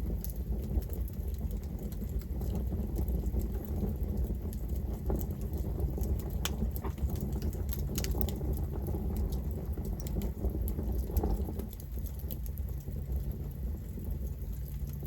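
Campfire burning, with the wood crackling and popping in irregular sharp snaps over a steady low rumble.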